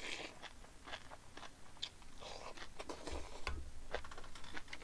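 Close-up chewing of a big mouthful of crisp soybean sprouts, with many small irregular crunches.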